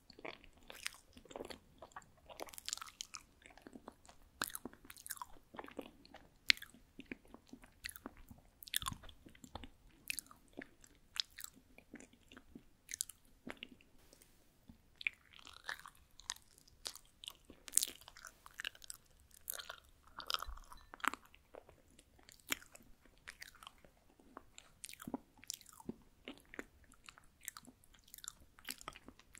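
Close-miked mouth sounds of a person chewing soft rice cake: a run of short, wet clicks and smacks, several a second, with no pause.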